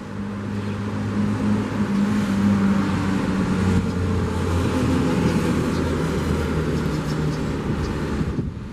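A car driving past, its engine note growing louder over the first two seconds and dropping slightly in pitch as it goes by, over a steady hiss of surf.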